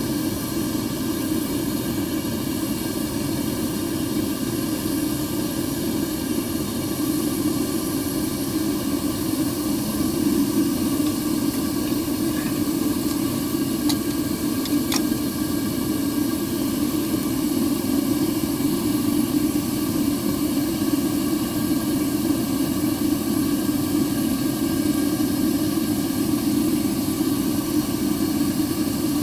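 Steady roar of a copper-melting furnace's burner, with a couple of faint ticks about halfway through.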